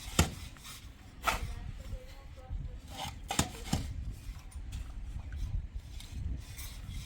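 A few sharp knocks and clatters, about five, spread over several seconds above a low rumble: objects being handled and set down.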